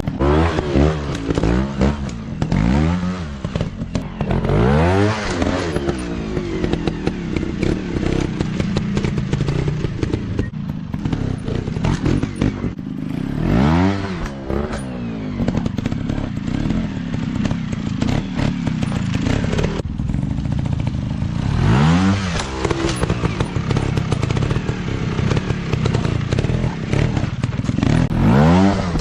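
Dirt bike engines running under throttle, revving up and dropping back again about five times, with clatter and scraping from the bikes over rough ground.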